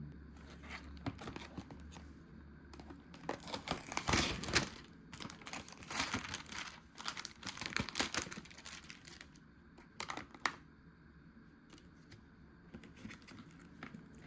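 Plastic food packaging crinkling and crackling as it is handled and torn open, loudest about four seconds in, with a last burst around ten seconds and a few faint rustles near the end.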